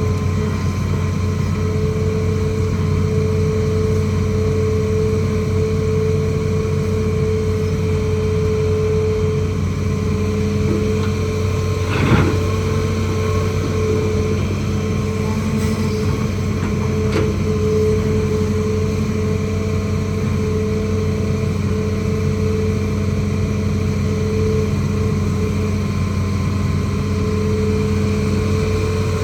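Hitachi ZAXIS200 excavator's diesel engine running steadily under a constant low hum and a steady whine, with a single sharp clank about twelve seconds in.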